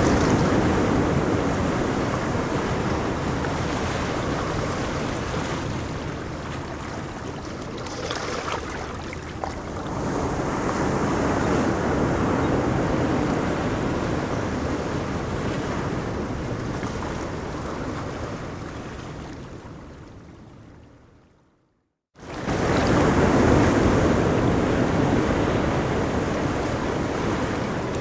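Ocean surf breaking and washing up on a beach, a steady rush of water that swells and eases. About twenty seconds in it fades away to a moment of silence, then comes back suddenly at full level, as at an edit.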